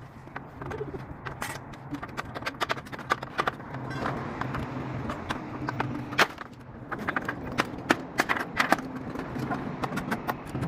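Irregular sharp knocks and clicks, some louder than others, over a steady low hum.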